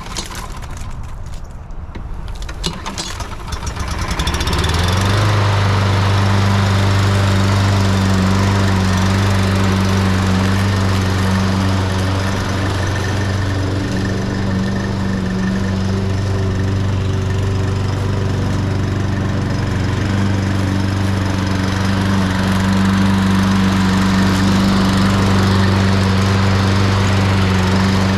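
Small gasoline lawn mower engine being started: a few seconds of irregular cranking and sputtering, then it catches about four seconds in and runs at a steady speed. Its carburetor has just been cleaned of stale, gummed-up gas, and it now starts and runs smoothly.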